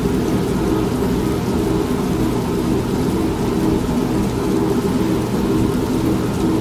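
An old washing machine running with a steady low hum and churn, mixed with steady rain and a continuous low rumble of thunder.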